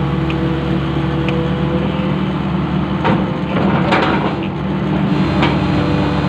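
Long-reach excavator's diesel engine running steadily, with a few clanks and a short stretch of scraping about halfway through as the machine works.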